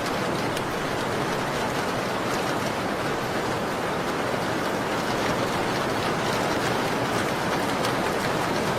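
Steady rain, a dense even hiss, with faint scattered crackles from a fireplace.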